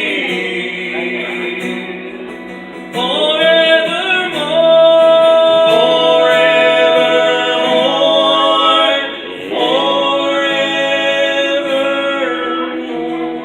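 Gospel vocal group singing the closing line of the song in harmony, drawing the last words out into long held notes. The notes swell twice, then fade near the end.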